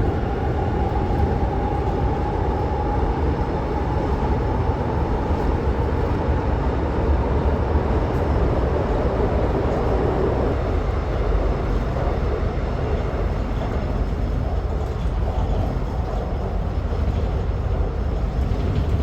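Steady rumble of a vehicle in motion, loud and unbroken, with a faint high tone over it for the first few seconds.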